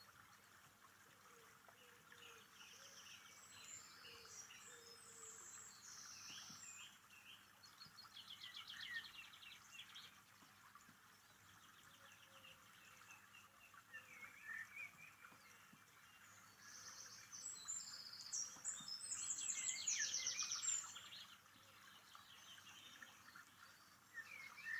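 Songbirds singing in two bouts of quick chirps and rapid trills, one a few seconds in and a louder one near the end, over a faint steady hiss.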